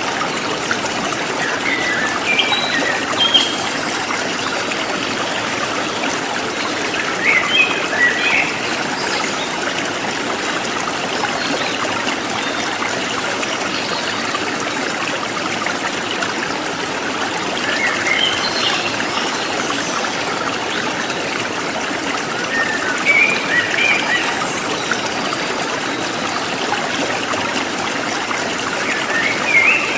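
A forest stream running steadily, with short bursts of bird chirps breaking in five times.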